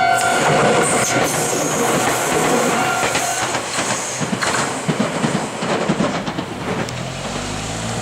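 Meitetsu 1800 series electric train running over a level crossing, its wheels clacking over the rail joints as it draws away. The crossing's warning bell rings until about three seconds in, then stops once the train has cleared. A low steady hum comes in near the end.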